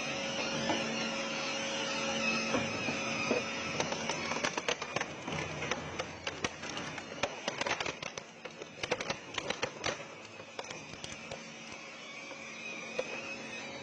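Industrial shredder running with a steady motor hum and whine, and a rapid run of sharp cracks and crunches from about four seconds in as material is torn apart between its blades.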